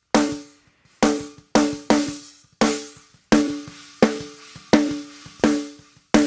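Recorded snare drum track played back through a gate, EQ, FET-style compression and a limiter: about ten sharp hits, each with a short ringing tone that dies away quickly, the space between them cut clean.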